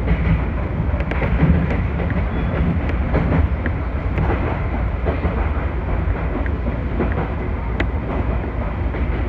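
Chichibu Railway electric train running, heard from inside the driver's cab: a steady low rumble with scattered sharp wheel clicks as it rolls over track joints and points.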